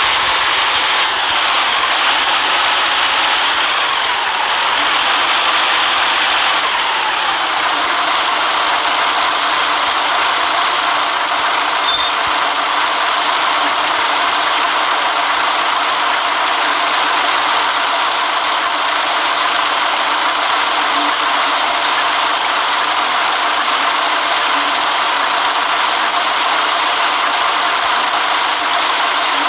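City bus driving, its engine running under a steady road noise. The engine note falls off about six seconds in.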